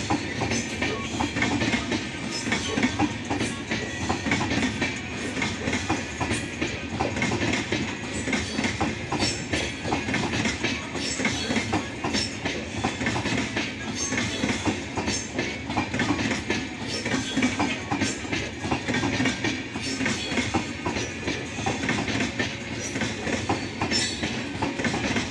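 Indian Railways passenger coaches rolling past: a steady rumble of wheels on rail with a continual clickety-clack of wheels over rail joints.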